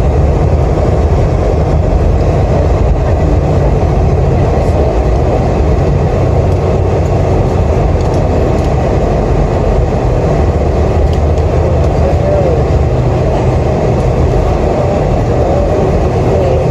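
Steady cabin noise inside a Boeing 747-400: a loud, even rumble of engines and airflow heard from a seat by the wing.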